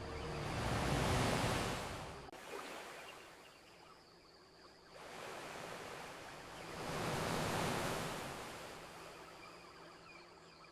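Ocean waves washing onto a beach: two waves swell and recede, the first peaking about a second in and the second around seven seconds in.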